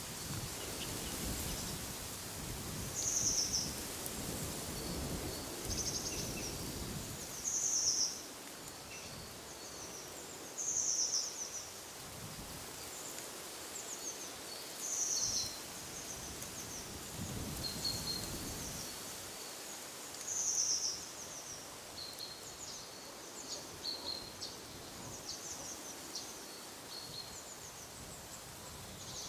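Songbirds calling with short, high, repeated notes every few seconds, over a steady wind hiss. Wind gusts swell in the first several seconds and again past the middle.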